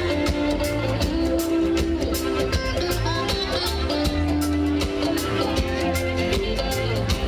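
Live roots reggae band playing an instrumental passage: electric guitar, bass and drums with a steady beat.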